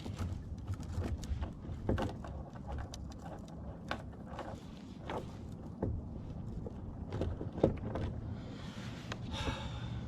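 Gear being handled aboard a kayak: scattered knocks and clicks against the hull, one sharper knock near the end, over a steady low rumble.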